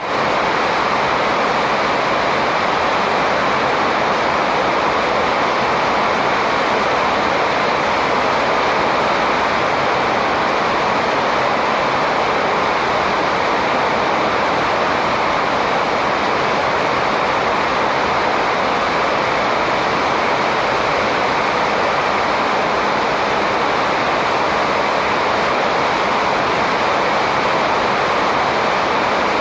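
Loud, steady rushing noise that holds even throughout, with no birdsong standing out.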